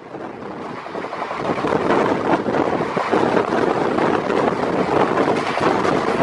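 A passenger train running at speed, heard from its open door: wheels rumbling on the rails and wind rushing over the microphone. The sound swells over the first couple of seconds and then holds steady.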